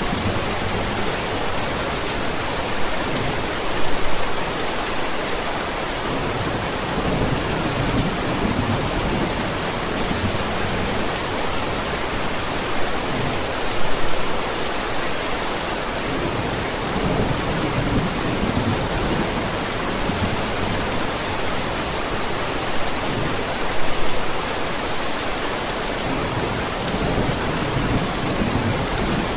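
Steady heavy rain hissing, with low thunder rumbling under it. The rumble swells three times, roughly ten seconds apart.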